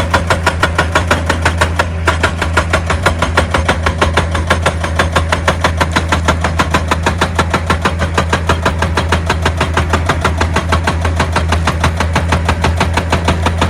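Excavator's diesel engine running with a steady hum under a rapid, even pounding of about seven blows a second, typical of a hydraulic rock breaker hammering stone.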